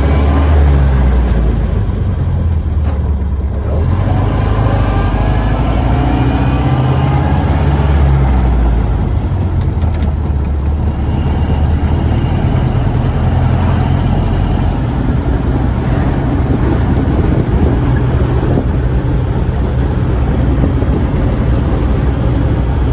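A 1931 Ford Model A pickup's four-cylinder flathead engine running as the truck drives, with steady road and wind noise over it.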